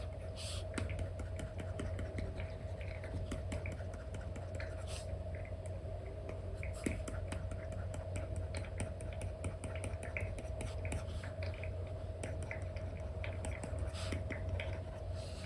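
Apple Pencil with an Elecom nib tapping and scratching in quick short strokes on an iPad's paper-like screen film, over a steady low hum.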